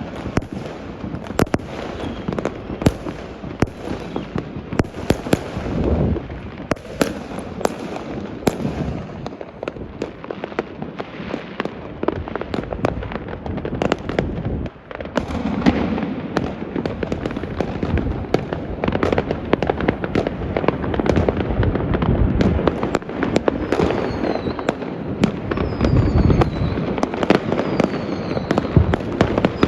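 Fireworks going off all over the city: a dense, constant crackle of firecrackers and bangs, with deeper booms now and then and a few falling whistles near the end.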